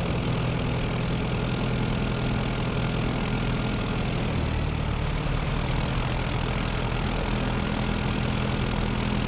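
Zenith CH 750 Cruzer's 118 hp piston engine and propeller idling steadily, heard inside the cabin, as the light aircraft waits before takeoff.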